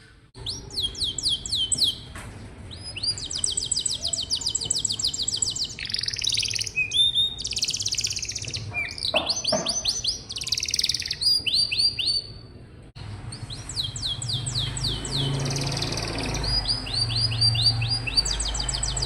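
Domestic canary singing: fast, high-pitched trills of quickly repeated sweeping notes, one roll after another. A low hum sits under the song in the last third.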